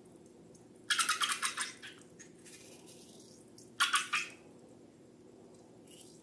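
Two short bursts of rapid rattling clicks, like small hard pieces shaken or poured: one about a second in, a shorter one near four seconds in.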